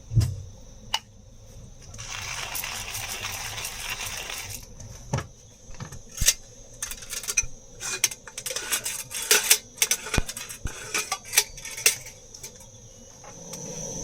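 Small metal items, like camp cookware and utensils, clinking and clattering as they are handled. There is a knock at the start, a rustling stretch of about two seconds, then a quick run of sharp clinks for several seconds. Insects buzz steadily in the background.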